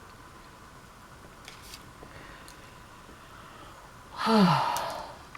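A woman's breathy, voiced sigh that falls in pitch, lasting about a second near the end. Before it there is only low room noise with a few faint clicks.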